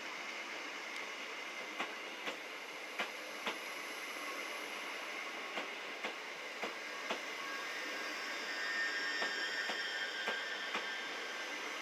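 Greater Anglia express electric multiple unit running slowly past: steady running noise with wheels clicking over rail joints every half second or so, and a thin high wheel squeal building near the end.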